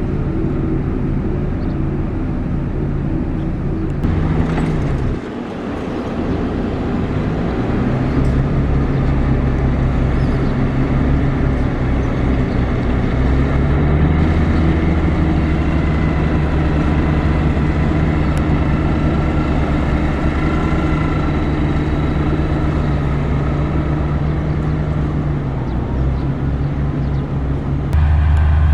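Heavy diesel construction-machine engine running, its pitch dipping about five seconds in, rising again a few seconds later, and easing down near the end, where the sound changes abruptly.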